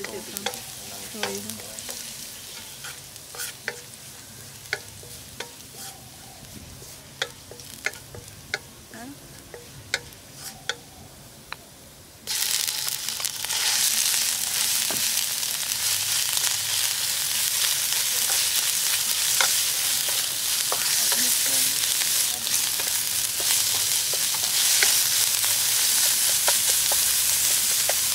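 Chopped garlic frying gently in oil in a nonstick wok, with a wooden spatula clicking and scraping against the pan. About twelve seconds in, a yellow spice paste goes into the hot oil and the sizzling suddenly jumps much louder. It stays loud and even while the spatula stirs it through.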